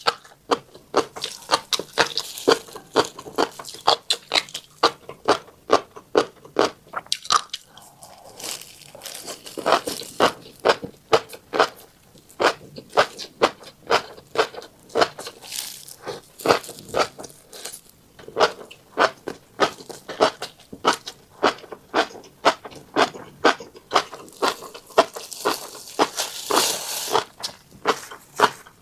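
Close-miked eating of tiny black seeds: a rapid run of sharp crunches and clicks, a few each second, with a few brief stretches of scraping rustle.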